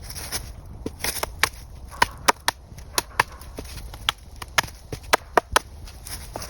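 A quick, irregular series of sharp knocks and cracks from a hand tool striking wood. The blows come about two or three a second and are loudest from about two seconds in until just before the end.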